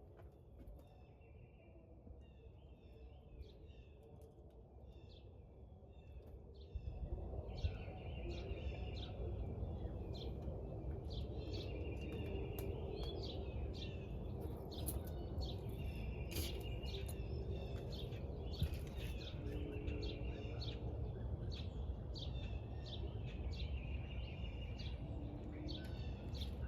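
Small birds chirping over and over, short quick calls, with a steady low rumble of outdoor background noise that grows louder about seven seconds in.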